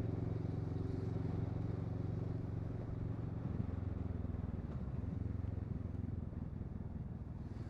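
Kawasaki Versys 650 motorcycle's parallel-twin engine running steadily under way, heard from the bike with wind rush; the engine note wavers a little around the middle.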